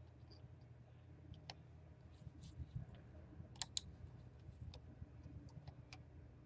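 Faint, irregular clicking at a computer while searching on screen, with a close pair of clicks a little over three and a half seconds in, over a low steady hum.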